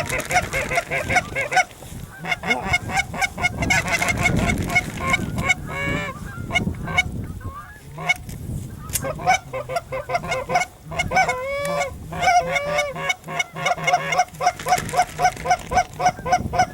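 A flock of geese honking, with many short calls overlapping in fast runs and a few longer, drawn-out calls partway through.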